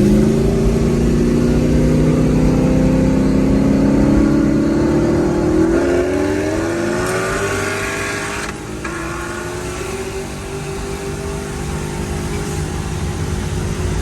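Car engine at wide-open throttle in a roll race, its pitch climbing steadily through the gears with a shift about six seconds in. About eight and a half seconds in it eases off and settles into a steady drone.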